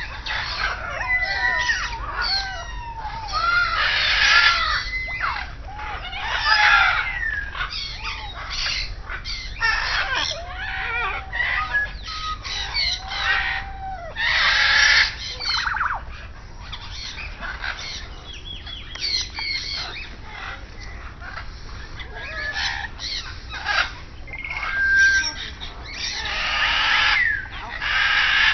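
Many birds calling at once in a crowded aviary chorus: harsh squawks mixed with whistled, sliding calls, in bursts that swell and fade.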